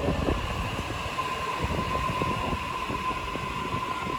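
Train running past on the rails: a steady rumble with a dense rattle of wheels and carriages, and a steady high whine that sets in about a second in.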